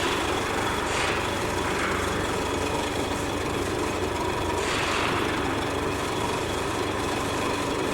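CNC machining centre running: steady machine noise with a faint steady whine, and short hissing swells about a second in and again around five seconds in.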